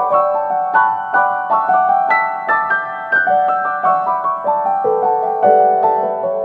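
Background piano music: a gentle melody of single notes struck one after another, each ringing and fading.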